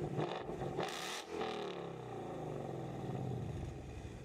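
2015 Mustang GT's 5.0-litre V8 through a freshly installed MBRP 3-inch cat-back exhaust, revved, then falling back over about two seconds to a steady idle.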